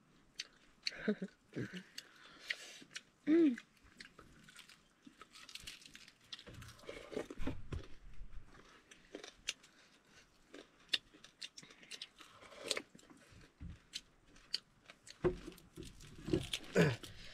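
Close-up chewing and crunching of roasted meat on the bone, with irregular sharp crackles as bone and crisp skin are bitten through, and a few short voiced sounds in between.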